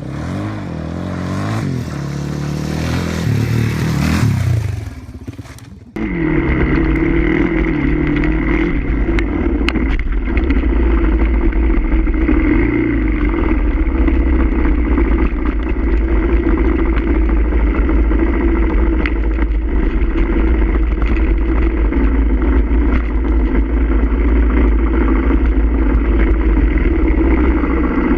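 Suzuki DR-Z400 single-cylinder motorcycle engine revving up, its pitch rising for about four seconds, then backing off. After a sudden cut about six seconds in comes a steady loud run of engine and road noise at speed.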